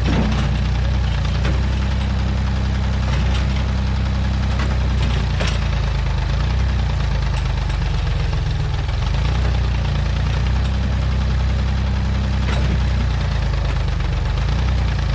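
Old Massey Ferguson backhoe's engine running steadily, with a few sharp knocks or snaps scattered through it.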